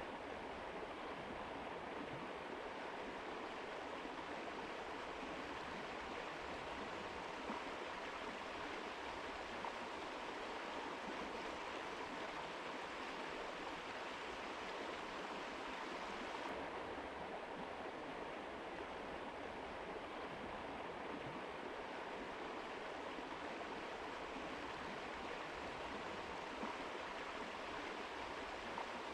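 A mountain river rushing steadily over rocks, a continuous even wash of water noise. A little past halfway its brightest hiss dulls slightly.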